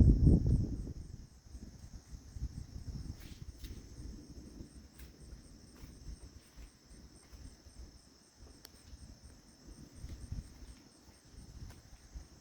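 A low rumble of thunder dies away about a second in, leaving insects trilling steadily in a fast even pulse over faint low wind buffeting on the microphone.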